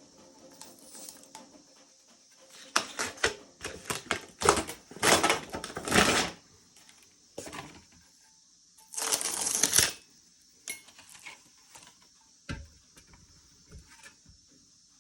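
Crinkling, crackling and tearing of heat-shrink wrap and sublimation transfer paper being peeled off a baked tumbler. It comes as a string of sharp rustling bursts for a few seconds, then one longer rip-like rustle, then a few small clicks.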